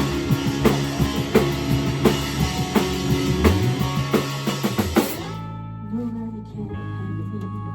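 Rock band playing live, the drum kit keeping a steady beat under the full band; about five seconds in, the drums and the loud band sound stop together, leaving quieter held instrument notes ringing.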